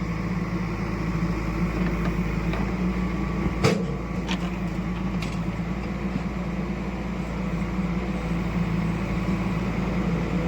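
Heavy diesel engine running steadily at a low, even pitch, with a single sharp knock a little over a third of the way in and a couple of fainter clicks after it.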